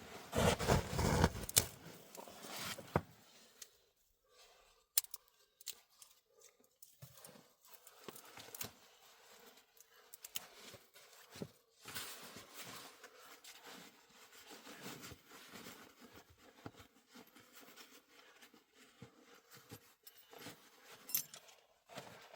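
Hands-on handling noises: a loud rustle in the first few seconds, then scattered sharp clicks, scrapes and softer rustles.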